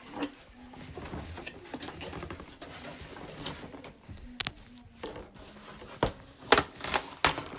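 Cardboard box of a Delta coffee machine being handled and opened: light rustling and scraping, with several sharp knocks and taps, a few in quick succession near the end.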